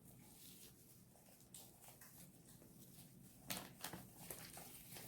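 Faint sticky sounds of shaving-cream slime being kneaded and pulled by hand, with a few soft crackles and pops about three and a half seconds in.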